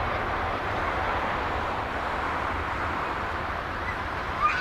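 Jet engines of a Cathay Pacific Airbus A350-900 (Rolls-Royce Trent XWB), a steady rushing noise with a low rumble underneath. A brief chirp sounds near the end.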